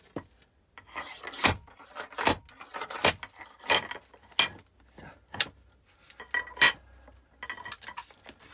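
Splitting axe striking oak firewood again and again: sharp wooden knocks and cracks, about one a second, with scraping of wood between the blows.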